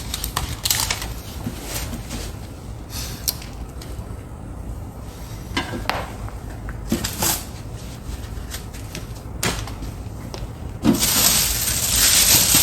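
Packaging and parts being handled during an unboxing: scattered light clicks and knocks, then a louder rustling, scraping noise near the end.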